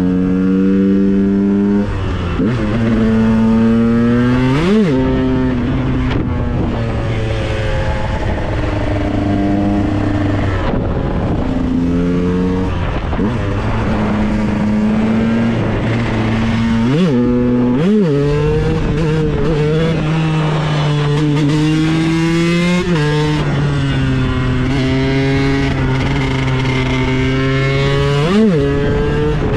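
KTM 125 EXC supermoto's two-stroke single-cylinder engine running, its note held steady and changing pitch in steps, with several quick sharp revs that rise and drop back.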